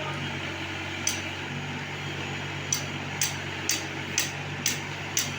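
Tractor-fitted backhoe loader's engine running steadily, with a sharp tick repeating about twice a second from the middle on.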